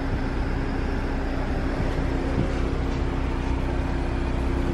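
Steady low hum of the 2017 Jaguar F-PACE running while parked, a low rumble with a couple of steady tones held throughout.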